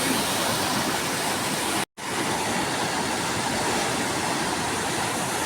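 Rushing water of a river in flood after heavy rain, a steady noise that cuts out for a moment about two seconds in.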